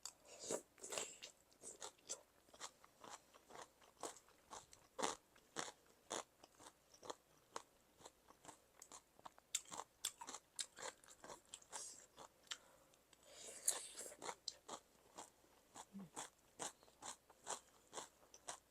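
Close-miked crunching and chewing of spicy cucumber salad, crisp crunches coming several times a second, with a denser, noisier stretch about two-thirds of the way through.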